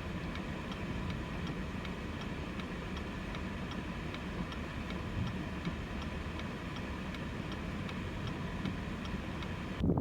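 Steady low street rumble with a faint, regular ticking about twice a second.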